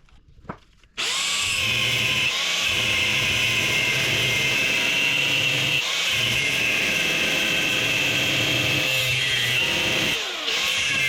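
An electric angle grinder starts up about a second in and cuts steadily into the thick steel shell of a refrigeration compressor, with a high grinding whine under load that dips briefly a few times.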